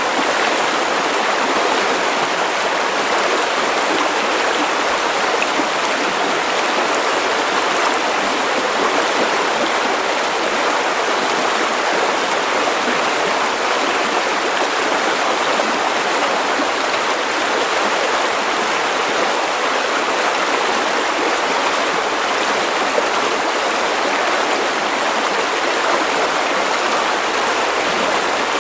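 River water running over stones, a steady, even rush of flowing water.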